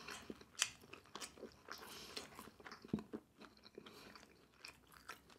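Faint close-up chewing of battered sweet and sour pork with rice: irregular wet mouth clicks and light crunches.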